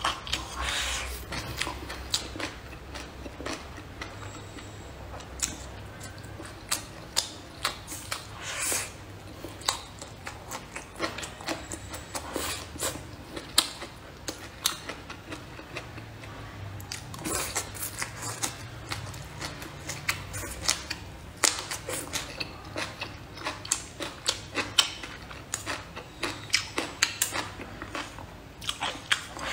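A person chewing and crunching food close to the microphone: irregular sharp crunches and wet mouth clicks, often several a second.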